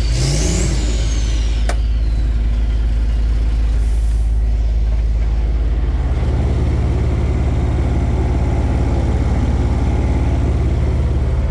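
Volvo FL 240 truck's diesel engine revved briefly and then left to idle steadily, with a high turbo whistle falling away over the first few seconds. Short air hisses come at the start and again about four seconds in.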